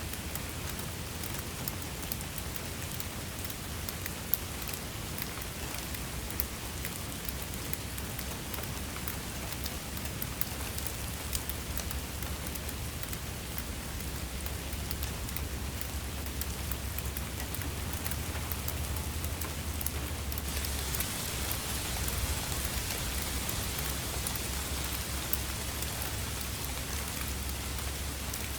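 Steady rain falling, an even hiss with many single drops ticking sharply through it. About two-thirds of the way in the hiss grows brighter and louder, as the rain comes down harder.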